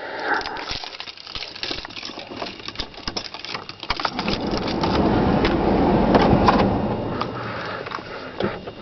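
Keys rattling and clicking, then about four seconds in the 1989 Ford F150's 300 cubic inch (4.9 L) inline-six is cold-started in freezing weather and catches right away. It runs loudest for a couple of seconds, then settles to a steadier, lower running sound.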